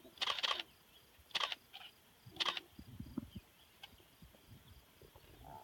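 Camera shutters clicking in short bursts four or five times, over a faint low rumble a little after the middle.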